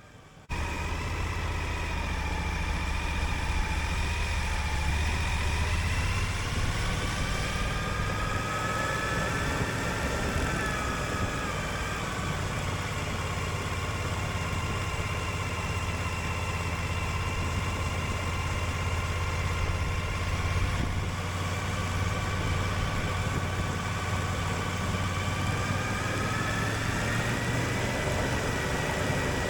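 Suzuki V-Strom 1050XT's V-twin engine running under way, a steady drone that cuts in suddenly about half a second in. Its pitch rises and falls slowly and gently as the revs change.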